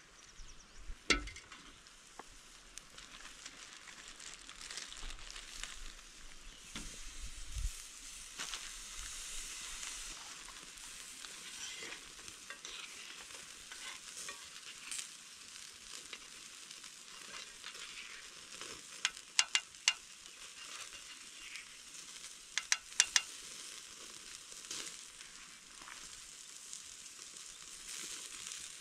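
Food sizzling in a pan over a campfire, a steady frying hiss. A knock comes about a second in, and a few clusters of sharp clicks come about two-thirds of the way through.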